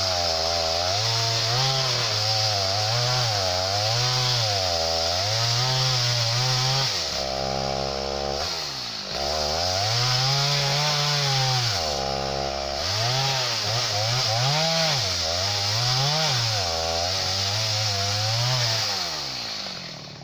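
Two-stroke chainsaw cutting a dead, dry tree, its engine pitch rising and falling again and again as the throttle is worked under load. Twice, about seven and about twelve seconds in, it settles briefly to a steady lower note.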